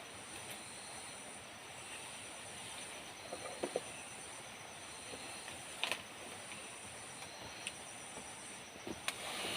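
Steady high-pitched chorus of forest insects, one of them pulsing rapidly, with a few short knocks and clicks, the loudest about three and a half and six seconds in.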